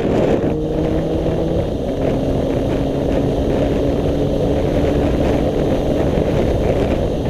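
Yamaha FZ1 motorcycle's inline-four engine running steadily under way, under a loud rumble of wind buffeting the microphone. The engine note drops slightly about two seconds in.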